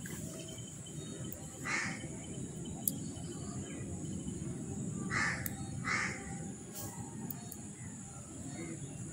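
Three harsh bird calls, like cawing: one about two seconds in, then two close together around five and six seconds in. Under them runs a steady high-pitched hiss and low background rumble.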